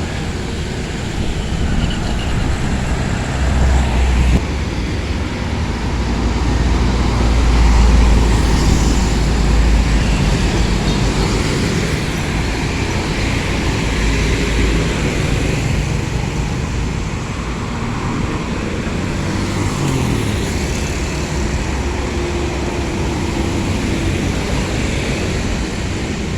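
Truck driving on a road: steady engine and road noise with a deep rumble, loudest about eight seconds in.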